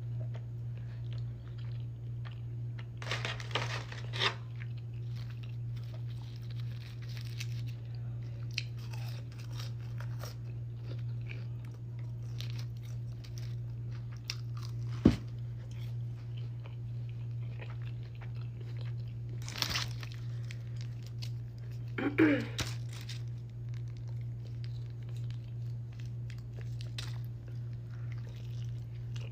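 Close-miked chewing and crunching of food in a mukbang, with a few louder crunchy bites and one sharp click, over a steady low hum.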